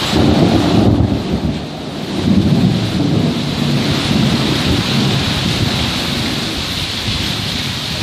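Thunder rumbling over steady, heavy rain. The rumble is strongest in the first second and swells again about two to three seconds in.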